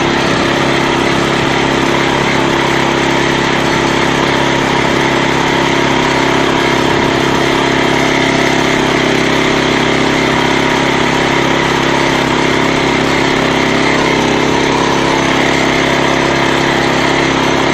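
Walk-behind tractor's engine running steadily under load while driving, loud and unchanging throughout.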